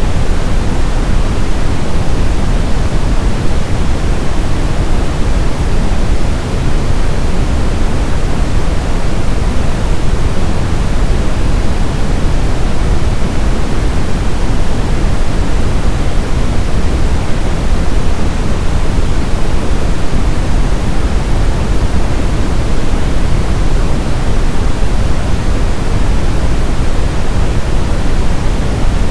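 Steady brown noise: a deep, even rush of random noise weighted toward the low end, like a distant rumble or waterfall, with no rhythm or change.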